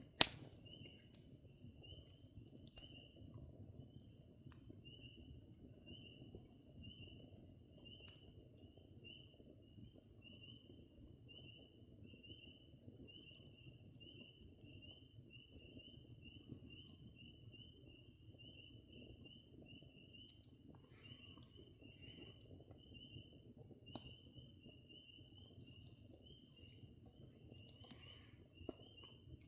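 A cricket chirping steadily at a high pitch, about two even pulses a second, over a faint low background hum. One sharp click just after the start, and a few fainter clicks later.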